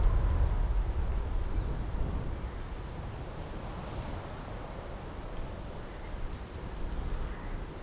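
Outdoor ambience: a steady low rumble like wind buffeting the microphone under a general hiss, with a few faint, short bird chirps.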